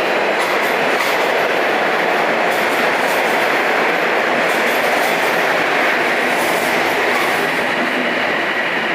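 Toronto Rocket subway train running through the station, a loud steady rush of wheels on rail with a faint high wheel squeal over it.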